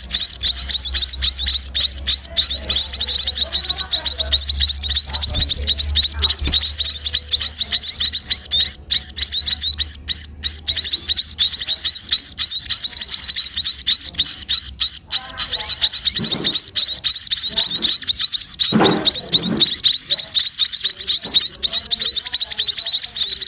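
Sparrow chicks giving a continuous stream of fast, high-pitched begging chirps.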